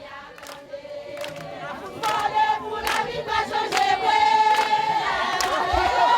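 A group of voices singing together in long held notes, growing louder about two seconds in.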